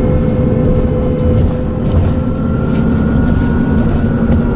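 Dennis Trident double-decker bus running under way: a steady low engine drone with a constant whine. About halfway through, a faint turbocharger whistle rises slowly in pitch.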